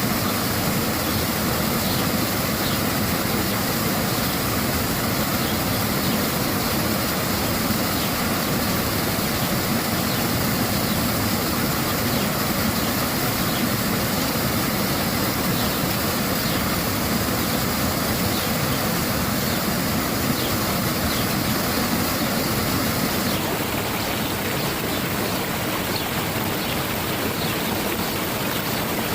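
Spring water flowing and splashing in a steady, even rush, its sound shifting slightly near the end.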